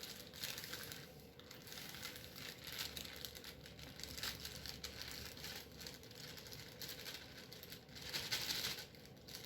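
Cake-mix packaging crinkling and rustling as it is handled and opened, in a run of short rustles that grows louder near the end.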